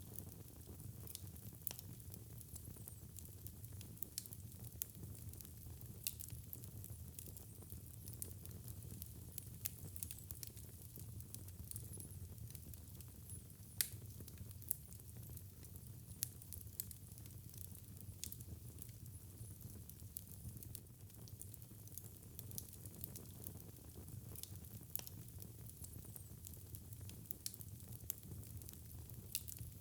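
Wood fire crackling in a fireplace: many small scattered pops and snaps over a low steady rumble, with one sharper pop about fourteen seconds in.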